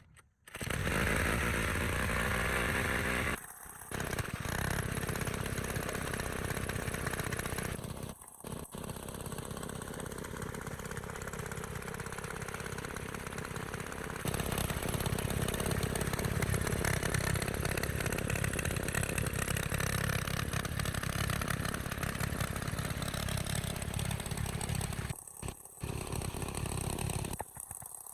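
Small four-stroke water pump engine running steadily, broken by a few short gaps, and a little louder from about halfway through.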